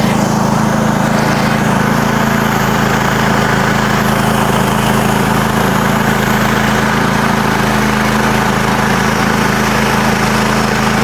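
MechMaxx SM32 portable bandsaw sawmill's engine running steadily at an even pitch while the mill saws slabs from a walnut log.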